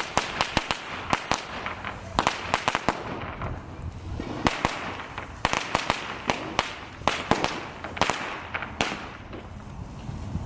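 Fireworks going off: a fast, irregular run of sharp cracks and pops, like a string of firecrackers, thinning out near the end.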